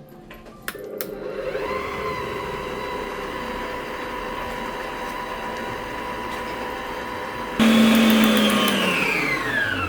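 Electric mixer whisking whipped-cream mix in a bowl: the motor starts about a second in, runs steadily, suddenly gets louder near the end, then winds down with falling pitch.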